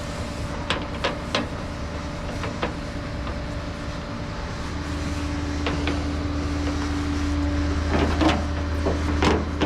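A tow truck's engine and hydraulics run with a steady drone that swells louder and takes on a clearer hum about five seconds in. Scattered metallic clanks and knocks sound over it while the car is handled on the truck.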